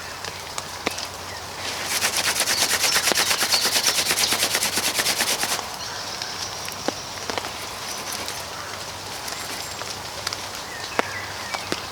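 Birch bark rubbed and rasped hard in the hands to drive off water: a rapid, even rasping that runs for about four seconds from around two seconds in. Scattered single ticks and a steady hiss come before and after it.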